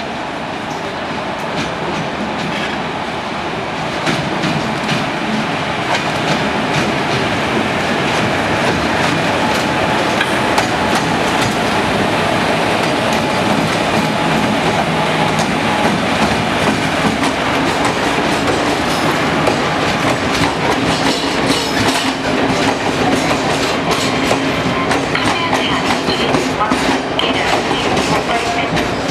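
Train rolling along the track, its wheels clicking over rail joints and points. It grows louder about four seconds in and stays loud.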